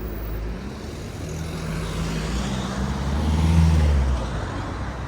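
A road vehicle passing close by: its engine note builds to a peak about three and a half seconds in, then fades.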